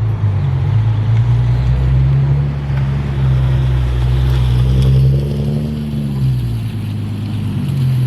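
A car engine running at low revs, its pitch rising slightly about halfway through and falling back again.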